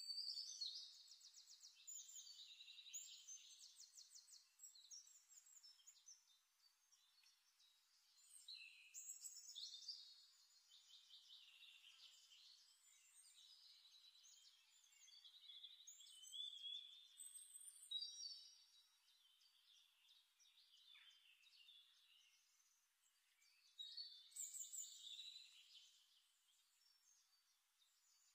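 A songbird singing faintly: phrases of rapid trills and chirps come and go several times, with short pauses between them.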